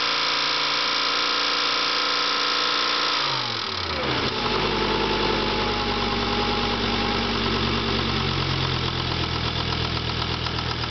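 Volvo 850's inline five-cylinder engine held at raised revs, then dropping back to idle about three and a half seconds in. It idles with a rhythmic clicking that remains despite new lifters and valve stem seals; the cause turned out to be a shattered piston.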